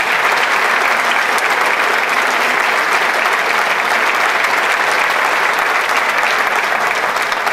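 Audience applauding steadily, a dense even clapping from a large concert hall crowd.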